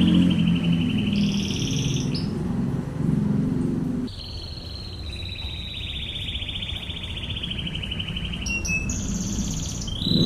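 Domestic canary singing long, very rapid machine-gun-like trills (the 'ngebren' rolls), each held one to three seconds before jumping to a new pitch, higher and lower in turn. A low background sound runs under the first four seconds.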